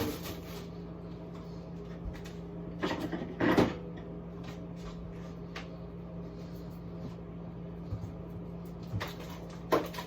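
Frozen food packages being handled and set down while a fridge-freezer is cleared out: a few short knocks and rustles about three seconds in and again near the end, over a steady low hum.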